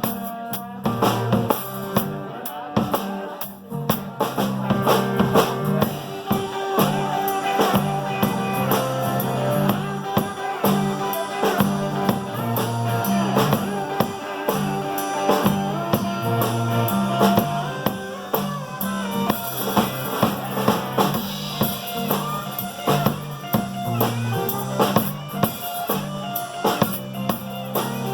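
Live blues-rock band playing an instrumental passage: drum kit and electric guitar over a bass line, with no singing.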